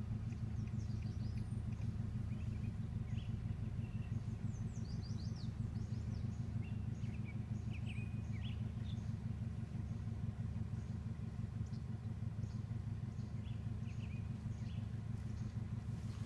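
Songbirds chirping and singing in short, quick phrases, over a steady low hum.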